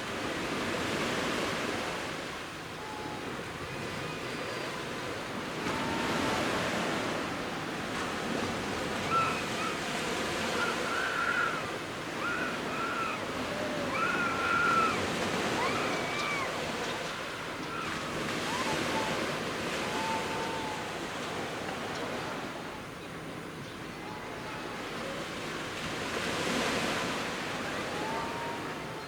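Surf of the Genkai Sea breaking on the beach in waves of about a metre, a hiss that swells and fades every few seconds. Short, high calls sound faintly over it, most of them in the middle.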